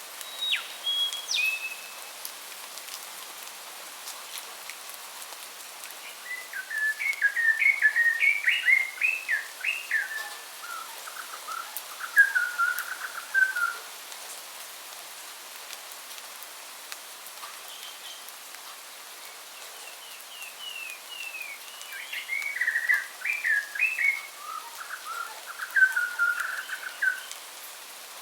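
A songbird singing two long, rapid, warbling phrases, with a brief whistled call just before them, over a steady hiss of rain.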